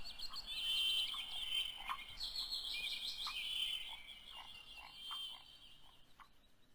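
Small birds chirping and trilling in quick, repeated high notes, fading out near the end.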